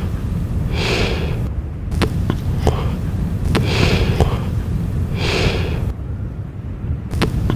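A person breathing heavily, one loud breath about every one and a half seconds, over a steady low rumble, with a few sharp clicks among the breaths.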